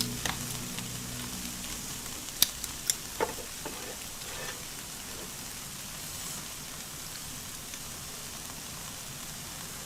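Shrimp and vegetables sizzling on an electric tabletop grill, a steady frying hiss. A few sharp clicks come between about two and three and a half seconds in.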